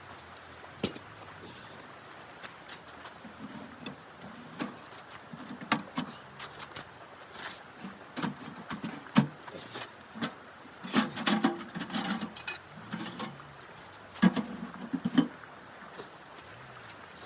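Irregular knocks and clicks with short dull thuds over a faint steady hiss, thickest about eight to fifteen seconds in.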